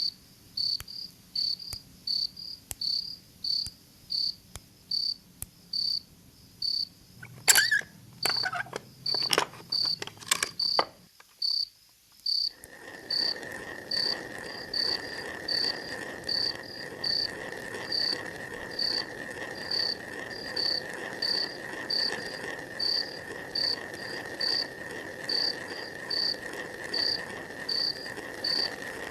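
Night insect ambience: a cricket chirps steadily at about one and a half chirps a second. A short flurry of louder, irregular chirps and clicks comes about a third of the way in. After a brief lull a steady high-pitched insect drone joins in and carries on with the chirping.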